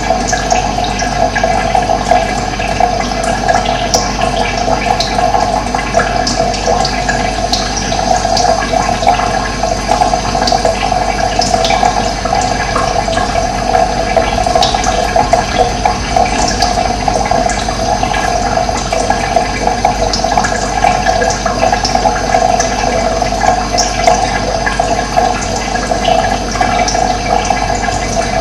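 Running water flowing and splashing steadily, with short high bird chirps here and there.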